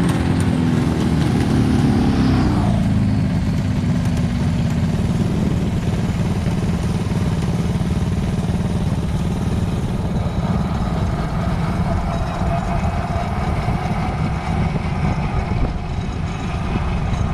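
An engine whose pitch falls over the first two to three seconds as it drops off, then a steady low rumble with no revving.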